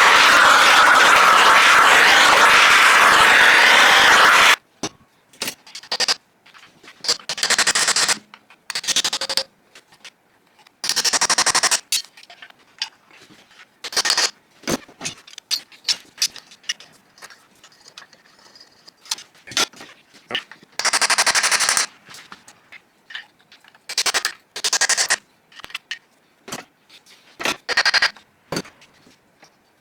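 Tools working seized cylinders off an old air-cooled VW engine. A loud, rapid rattle runs for about the first four and a half seconds and stops abruptly. Then come intermittent short bursts with sharp metallic knocks and scrapes, from jugs that are hard to free.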